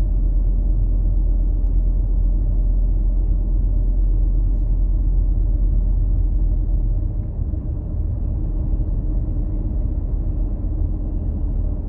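Steady low rumble of a car driving along a road, with no distinct engine note. It eases slightly about seven seconds in.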